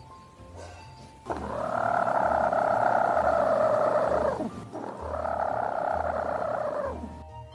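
Chicken purring: two long, rough, trilling purrs of about three and two and a half seconds, each dropping off at its end.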